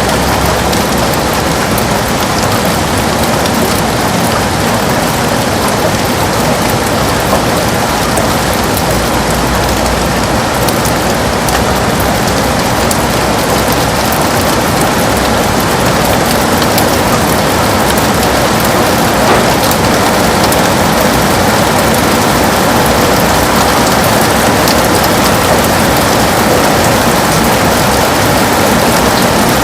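Heavy rain beating steadily on a window, a dense even wash of drops.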